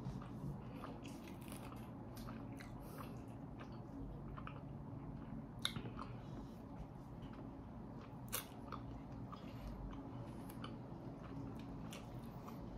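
Someone chewing and biting into sauced chicken wings: faint wet mouth sounds with scattered small clicks, two sharper ones about halfway through. A low steady hum runs underneath.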